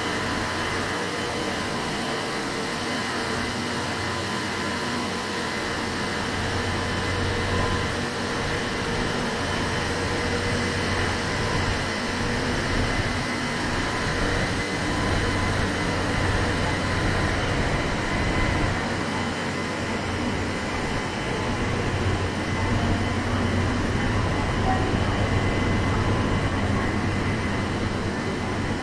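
Running noise heard from inside a train as it pulls out of a station: a steady rumble with a low hum and faint steady whine tones, growing a little louder as it gathers speed.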